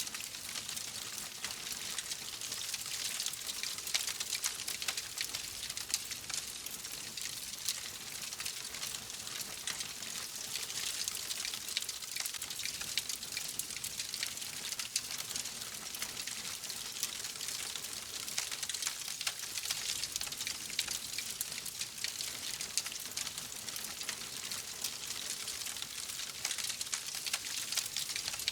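Wood fire crackling steadily, a dense stream of small snaps and pops over a soft hiss.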